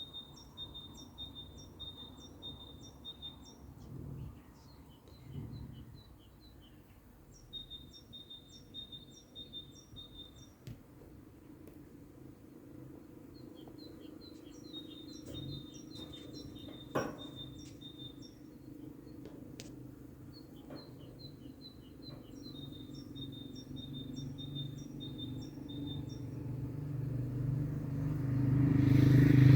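A songbird singing in bursts of several seconds, each a quick run of the same two-note phrase repeated about two times a second, with pauses between bursts. Near the end a vehicle's low rumble grows louder as it approaches and drowns the song out.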